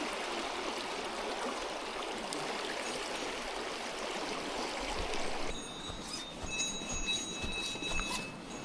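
Mountain stream rushing steadily. About five and a half seconds in it cuts abruptly to a quieter, softer water sound with thin steady high tones and a few short ticks.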